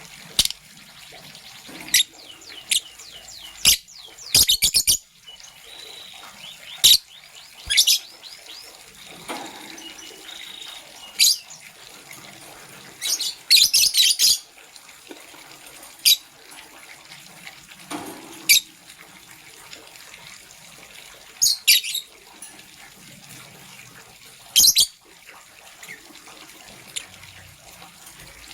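Lovebirds chirping: short, shrill calls at irregular intervals, several coming in quick runs of three to five, over a steady soft hiss.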